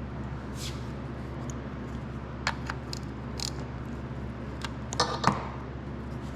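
Light clicks and taps of a piston in a steel ring compressor being wiggled and worked into a small engine's cylinder, over a steady low hum. The loudest are a couple of knocks about five seconds in.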